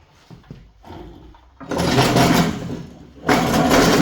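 A handheld power tool run in two bursts of about a second each, a rapid rattling buzz, starting a little under halfway in.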